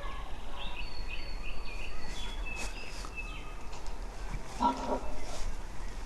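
Small songbird chirping in short, high notes, with a brief lower-pitched call from another animal about three-quarters of the way through.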